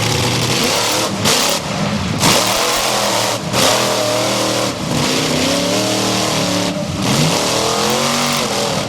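Monster truck engine revving hard, its pitch rising and falling again and again, with several short loud blasts in the first few seconds.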